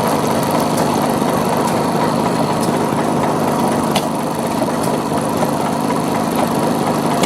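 Single-cylinder hot-bulb (heavy-oil) stationary engine running steadily, with a few faint sharp ticks over the even mechanical noise.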